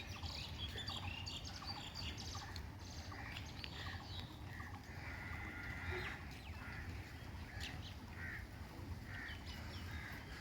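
Several birds chirping and calling, many short overlapping notes and a longer held call about five seconds in, over a steady low rumble.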